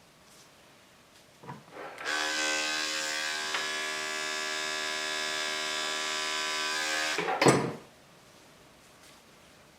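Electric dog grooming clippers switched on and running steadily with a buzzing hum for about five seconds, starting about two seconds in, then stopping, followed at once by a short, loud knock.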